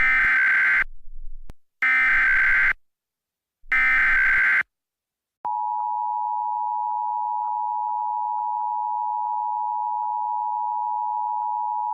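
Emergency Alert System tones. First come three short, harsh digital bursts of the SAME header, each just under a second long with about a second between them. About five seconds in, the steady two-tone EAS attention signal starts and holds without change.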